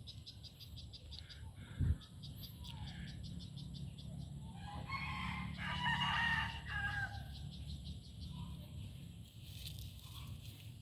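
A rooster crows once, one long call of about two seconds near the middle, over steady rhythmic insect chirping. There is a brief low thump about two seconds in.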